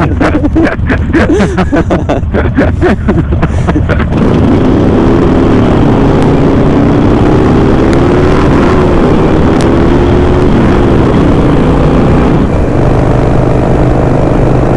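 Harley-Davidson Sportster V-twin motorcycles riding on the road with wind rushing past. The sound is choppy for the first few seconds, then turns steady and loud, with an engine note that rises and falls before settling.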